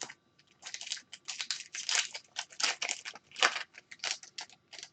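Foil trading-card pack wrapper crinkling and tearing in a rapid run of crackles as a pack of hockey cards is ripped open and handled.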